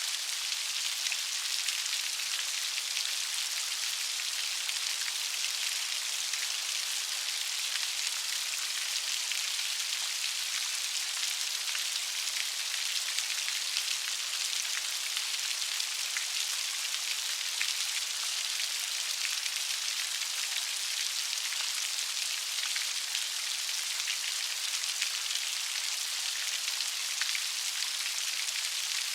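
Light rain falling steadily, a soft even hiss of many small drops with a fine pattering crackle.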